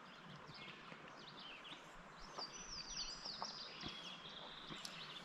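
Faint wild birds chirping and whistling, short high calls with one longer held whistle in the middle, over quiet outdoor background, with a few light clicks.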